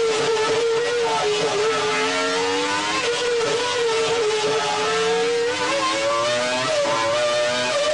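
Formula One racing engine running at very high revs, its high-pitched note wavering up and down, dipping and then rising again near the end.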